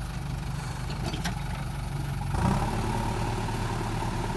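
Diesel engine of a JCB 3DX backhoe loader running steadily, with a short click about a second in; about halfway through the engine note changes and grows louder.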